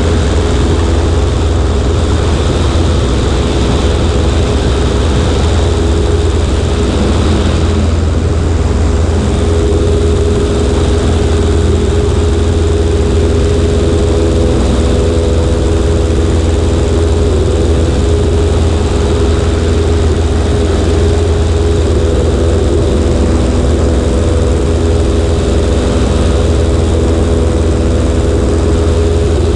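Cessna 140A's four-cylinder Continental engine and propeller running at a steady drone, with rushing air noise, heard from a camera mounted on the right wing.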